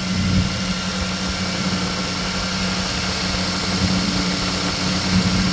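Toyota 4Runner's 4.7-litre V8 (2UZ-FE) idling steadily soon after a cold start, heard over the open engine bay. It runs smoothly with no ticking or other noise, the sign of a healthy engine.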